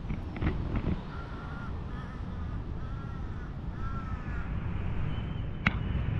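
A bird calling in a series of about five short, arched, harsh notes, over a steady low outdoor rumble. A few light clicks come in the first second and a single sharp click comes near the end.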